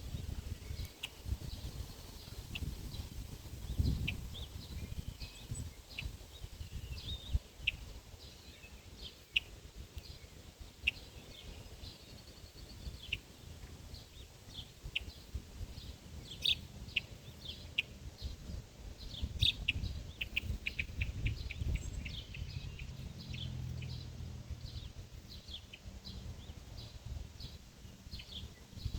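Birds chirping: short, high chirps scattered throughout, with faster runs of chirps in the second half, over a low rumble.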